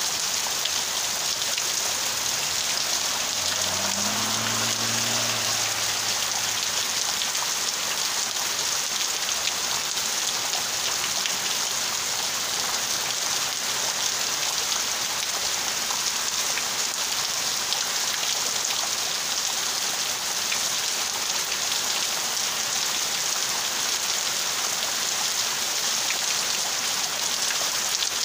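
Heavy rain pouring down steadily in a downpour, a dense even hiss of drops falling on palm fronds and the ground.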